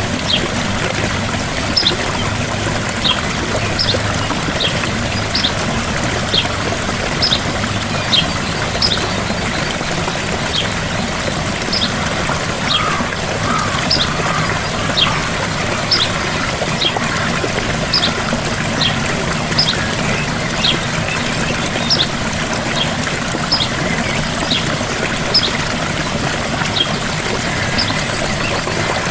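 Gentle waterfall running steadily, a constant rush of falling water. Over it, a bird's short, high chirp repeats about once a second.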